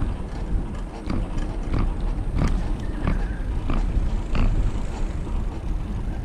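A bicycle making a repeating short, sharp noise about every two-thirds of a second while being ridden, over a steady low rumble of wind on the microphone.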